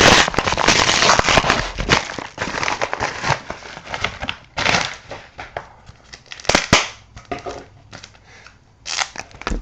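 A mailed package being opened by hand: packaging crinkling and tearing, dense at first, then giving way to scattered rustles and sharp clicks as the contents are handled.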